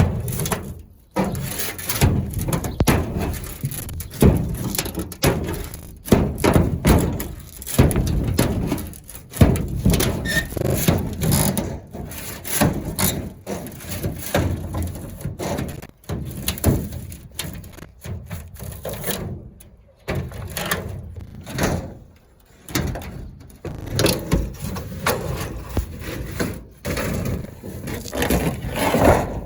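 Old wooden roof being dismantled by hand: irregular knocks and thuds on timber, with scraping and rubbing of boards between the blows.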